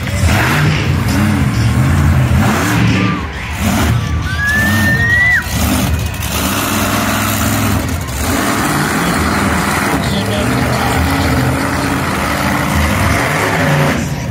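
Monster truck engine revving hard, its pitch rising and falling again and again as the truck drives its run, with a short rising whistle partway through.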